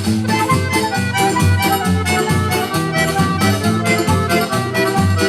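Instrumental introduction of a Brazilian São João festival song: an accordion playing the melody over a steady, even beat.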